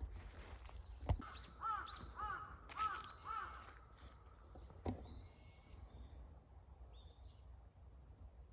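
A bird calling four short arched notes about half a second apart. A sharp knock comes just before the calls and another a little after them.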